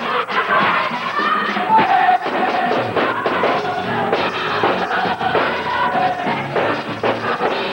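Gospel choir of high-school students singing, with held notes among the moving phrases.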